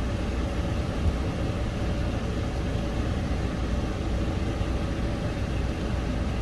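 Steady low mechanical rumble with a faint steady hum, running without change.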